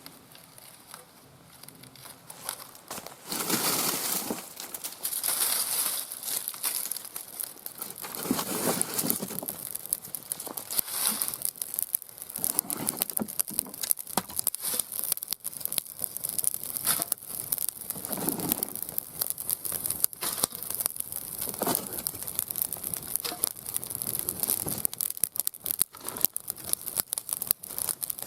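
Wood fire crackling and popping in an iron fire pit, with irregular sharp pops and soft rushing swells of flame.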